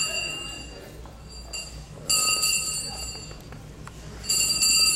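Handbell being shaken in bursts, a bright jangling ring about every two seconds, dying away between shakes: the ceremonial 'last bell' rung to mark the end of school for the graduates.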